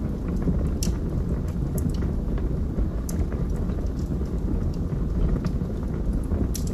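Log fire burning in a fireplace: a steady low rumble of the flames with scattered sharp crackles and pops from the burning wood.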